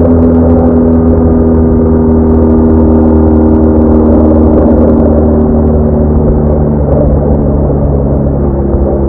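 BMW R1200R boxer-twin engine running steadily on the move, its pitch easing slightly about two-thirds of the way through.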